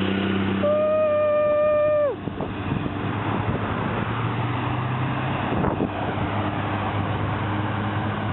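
Wind and road noise from riding a bicycle downhill, with traffic passing. Under a second in, a single steady pitched tone, much like a horn, sounds for about a second and a half and stops.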